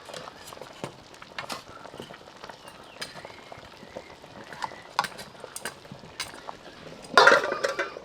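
Light scattered clicks and clinks of cooking utensils, with a short, louder burst of sound about seven seconds in.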